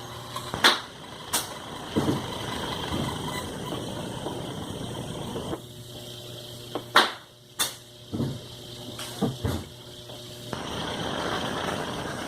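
Parts of a sewing machine motor being handled and fitted back together: sharp knocks and clicks, several in a row near the middle, over a steady rushing noise that comes and goes.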